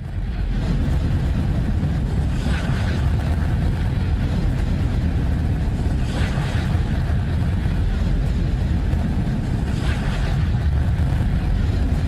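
A planet-sound track from space-probe data turned into sound: a dense, steady rumble like wind or a distant engine. A hissing swell rises out of it about every four seconds.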